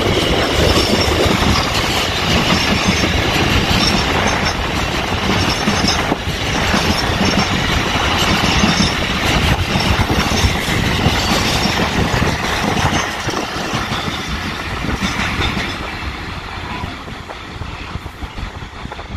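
Loaded container wagons of a freight train running past on the rails, a steady loud noise of wheels on track. It dies away over the last few seconds as the end of the train draws off.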